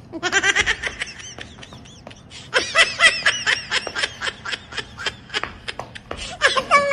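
A person laughing hard in rapid, high-pitched bursts. The laughter eases off about a second in and builds again from about two and a half seconds.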